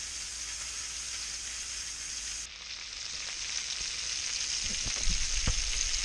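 Sausages sizzling in a steel frying pan: a steady high hiss that gets louder about two and a half seconds in, with a few low bumps near the end.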